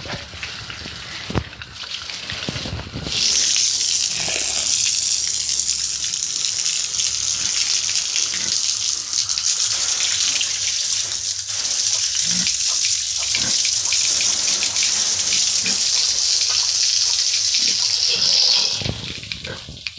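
A strong jet of water hissing steadily as pigs are washed down. It starts about three seconds in and stops shortly before the end, after a couple of knocks at the start.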